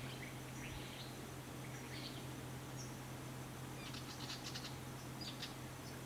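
Small birds calling in short, high, quick chips, a handful of bursts with the fullest about four seconds in, over a low steady hum.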